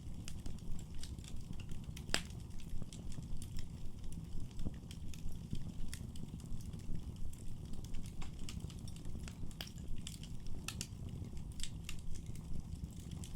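Wood fire burning in a fireplace: irregular sharp crackles and pops over a low steady rumble of the flames, with one louder pop about two seconds in.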